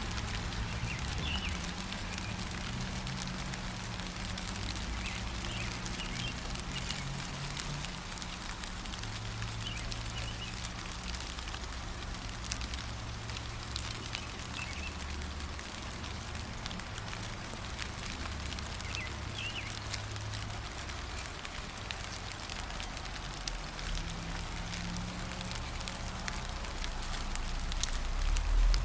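Steady gentle rain pattering, with a few faint bird chirps in the first seconds and again briefly later. A low rumble runs underneath and swells near the end.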